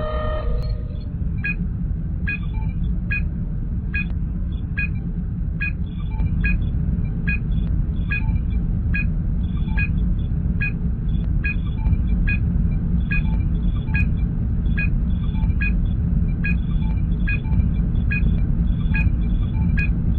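Star Trek starship ambience sound effect: a steady low engine hum with a short, high computer pip repeating about every three-quarters of a second, a sensor-scan signal.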